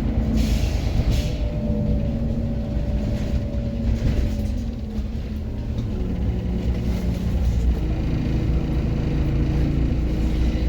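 Diesel engine of a Scania OmniCity city bus running as the bus drives, a steady low rumble with a faint whining tone near the middle.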